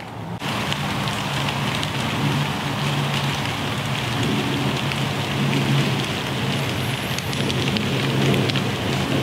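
Steady rain falling, an even hiss scattered with the little pops of individual drops; it comes in abruptly about half a second in.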